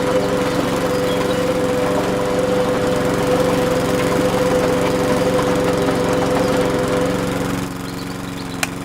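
A small motor running with a steady hum, dropping in level about three-quarters of the way through; a single sharp click just before the end.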